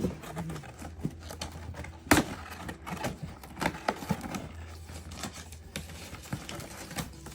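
Cardboard and plastic toy packaging being opened and handled: scattered clicks and crinkling rustles, with one sharp click about two seconds in.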